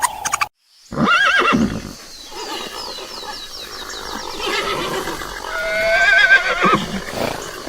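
Animal calls with a wavering, trembling pitch: a short call about a second in and a longer one around six seconds in, with a quick run of repeated high chirps between them.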